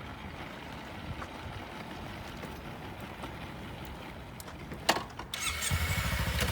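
A click, then the 2013 Kawasaki Ninja 300's twin-cylinder engine starts up about five seconds in and settles into a steady idle, after a few seconds of faint background noise.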